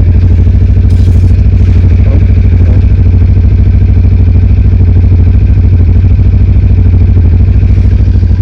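Cyclone RX401 motorcycle engine running at a steady speed, with an even low pulse that does not rise or fall.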